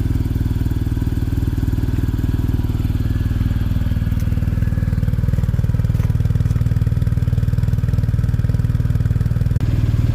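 BMW R1250RT's boxer-twin engine running steadily, a constant low, even drone.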